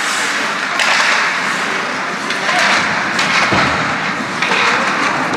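Ice hockey game noise in a rink: a steady din of the crowd and play on the ice, with scattered knocks of sticks and puck and one louder thud about three and a half seconds in.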